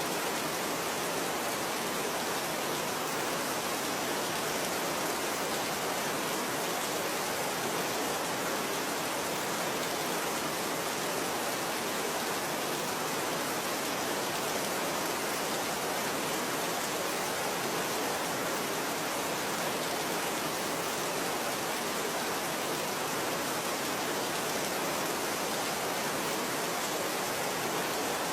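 Steady, even rain with no separate drops standing out and no change in level.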